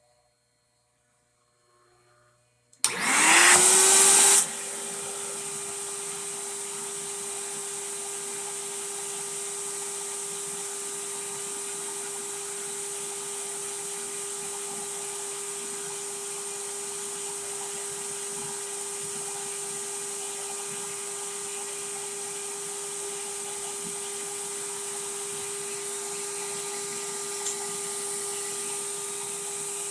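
Record Doctor X vacuum record-cleaning machine's suction motor switching on about three seconds in, its whine rising in pitch and loudest for about a second and a half, then settling into a steady whine with a hiss of rushing air.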